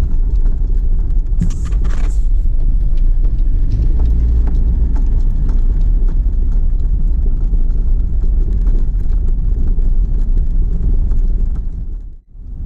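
Car driving, heard from inside: a steady low rumble of engine and road noise, with a few light clicks and rattles. It drops out sharply for a moment near the end.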